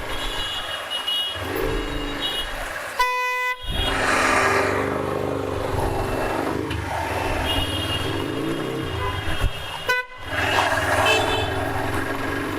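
Busy road traffic heard while riding: vehicle horns honk several times over a steady run of engines and road noise. The sound cuts out briefly twice.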